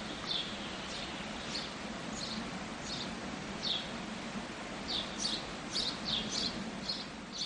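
Small birds chirping: short, high, falling chirps, a few every second and coming thicker in the second half, over a steady outdoor background hiss.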